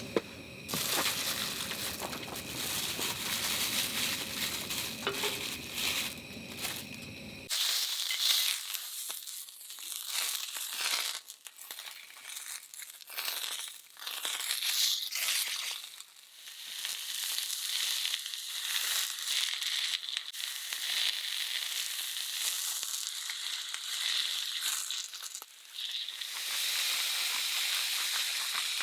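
Food sizzling and frying in a pan, a steady hiss full of small crackles and pops. About seven seconds in, a low background rumble cuts out abruptly, leaving only the sizzle.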